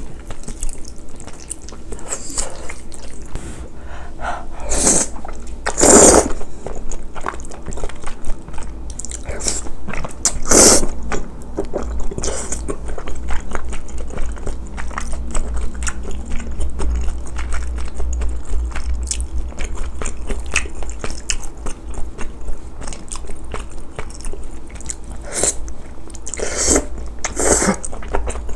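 Close-miked eating: wet chewing and biting of spicy braised chicken and glass noodles, with many small mouth clicks and a few louder, brief noises.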